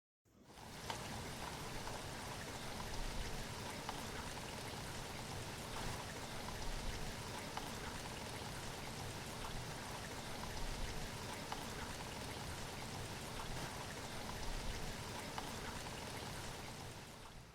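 Falling water: a steady hiss with many small drips through it. It fades in just after the start and drops away near the end.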